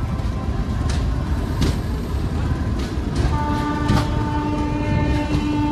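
Passenger train pulling out of a station, heard from the coach doorway: a low rolling rumble with a few sharp wheel clicks over rail joints. A steady train horn sounds for about three seconds from just past halfway.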